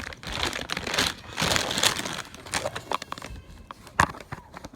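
Plastic packaging crinkling and rustling as it is handled and pulled at, with scattered clicks and one sharp click about four seconds in.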